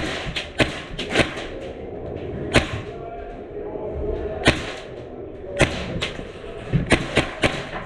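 Airsoft guns firing scattered single shots, sharp cracks at irregular intervals, about nine in all.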